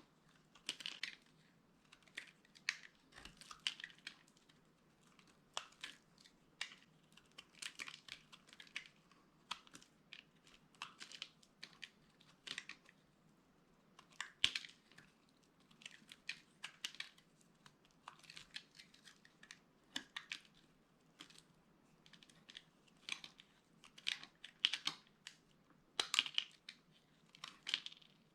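Dry bar soap being crushed, giving crisp, crunchy crackles that come in short irregular clusters, about one or two a second.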